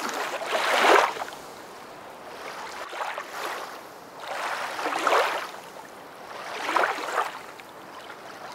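Water washing in four swells of hiss about two seconds apart, the first the loudest, like small waves.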